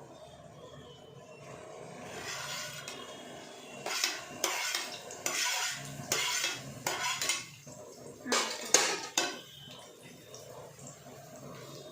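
Metal spoon scraping and clinking in a cooking pan as onions are stirred, with a run of sharp strokes in the middle and a soft hiss of frying under them.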